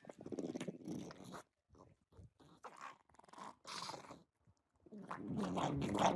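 Sounds of a pet animal: short irregular noises, then a denser stretch with a low buzzing tone from about five seconds in.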